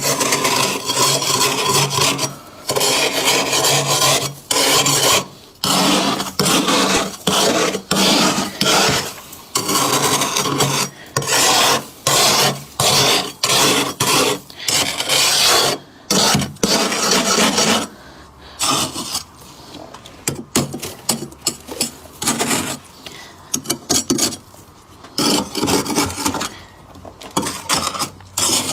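Thick frost being scraped off in repeated rasping strokes, each about half a second to a second long. In the last third the strokes turn quieter and shorter, with crisp crackles.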